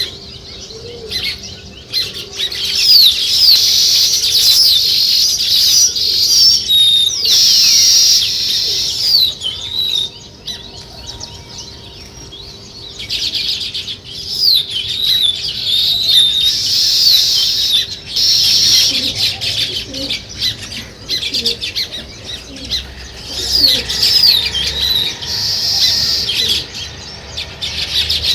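A group of house sparrows chirping and chattering. The calls come in three loud bouts, with quieter stretches of a few seconds between them.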